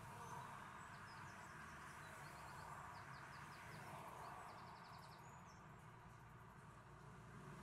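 Faint outdoor street ambience with small songbirds chirping in short, high calls throughout, including a quick rapid trill about four and a half seconds in.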